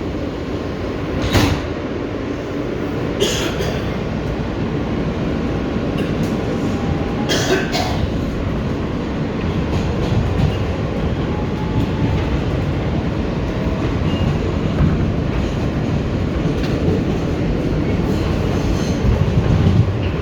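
R160B subway train with Siemens propulsion running at speed, a steady rumble of wheels on rail, with a few sharp clacks over rail joints in the first eight seconds.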